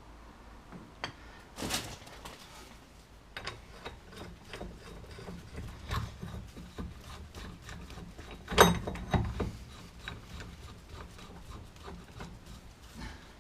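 Tools and wheel-hub parts being handled, giving scattered clicks and knocks, the loudest about eight and a half seconds in.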